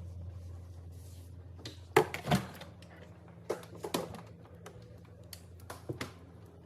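Hard containers and items being set down and shifted about in a refrigerator: a series of sharp clicks and knocks, the loudest pair about two seconds in, over a steady low hum.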